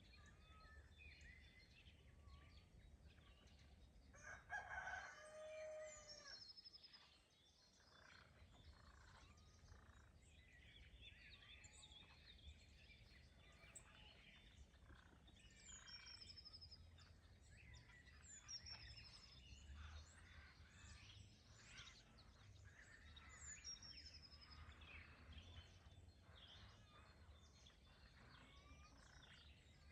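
A rooster crowing once, one long crow about four seconds in, over songbirds chirping throughout and a low steady background hum.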